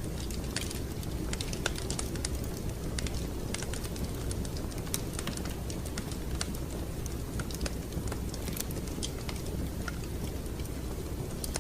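Wood fire crackling in a fireplace: irregular sharp pops and snaps scattered over a steady low rumble of the burning fire.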